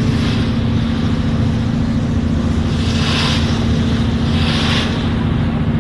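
Boat engine running steadily under way, a constant droning hum with a rushing hiss of water and wind over it that swells twice, about three and four and a half seconds in.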